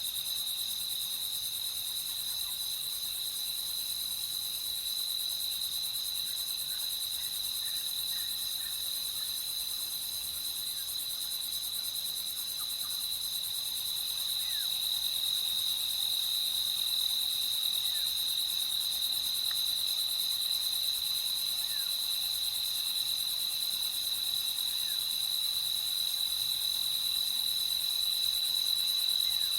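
Crickets chirping at night in a continuous, steady high trill, with a few faint short chirps from further off.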